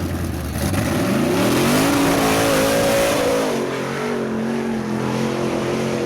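Off-road vehicle engine revving up hard about a second in, held at high revs, then easing off slightly and holding steady, over a loud rushing noise.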